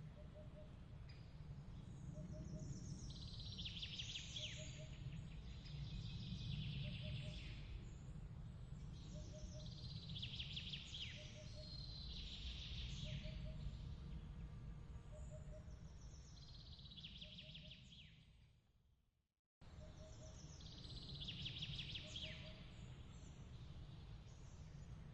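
Songbird phrases with fast trills recurring every two or three seconds over a steady low rumble, with a faint double chirp repeating about once a second. The whole mix fades out about 18 seconds in and cuts back in abruptly just after, as an ambience loop restarting.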